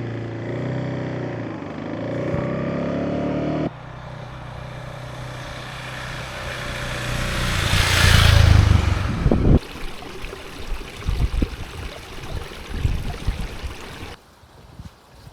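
A run of short cuts: a motorcycle engine running for the first few seconds with its pitch shifting slightly, then a rising rush of noise that swells to the loudest point and cuts off suddenly, then a stretch of irregular low thumps.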